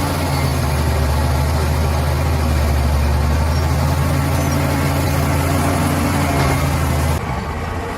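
Bulldozer's heavy diesel engine running steadily with a deep low hum, which drops away abruptly about seven seconds in.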